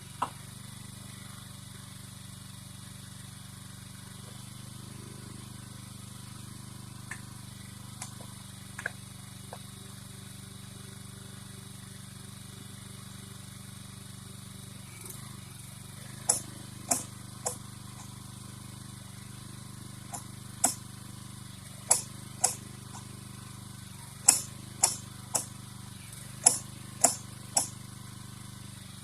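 A small engine running steadily at an even pitch, with a series of about a dozen sharp clicks or clanks, often in quick pairs, starting about halfway through.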